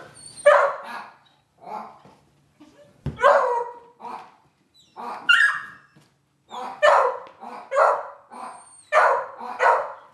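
Dog barking excitedly at a cat: about a dozen loud, separate barks at uneven intervals, coming faster in the second half.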